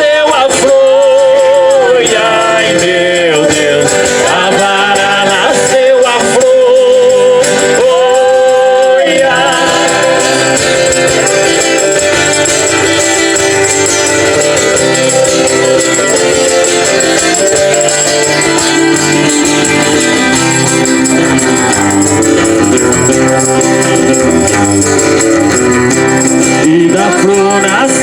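Folk song being sung with a hand shaker keeping the beat: a single voice holds long, wavering sung notes for the first nine seconds or so, then the music carries on as a fuller, steadier passage.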